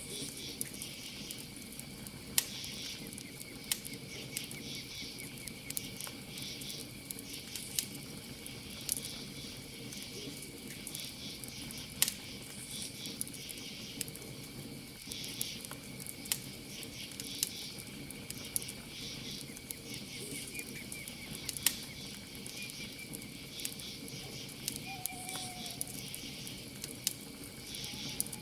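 Campfire crackling with frequent sharp pops, over a steady high-pitched trill and chirping of crickets.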